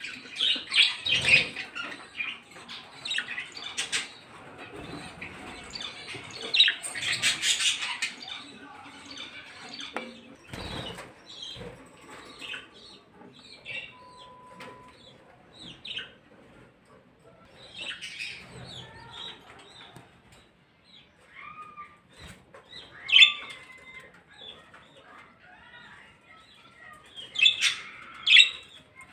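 Caged pet birds chirping and squawking in bursts, with the loudest flurries about a second in and around seven seconds, and a few sharp single calls later on.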